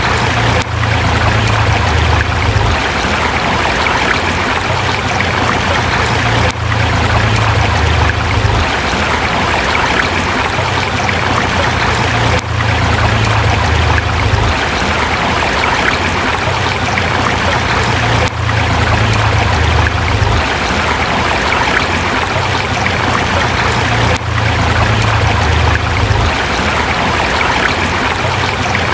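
River water rushing steadily over rocks, with a brief dip in level about every six seconds.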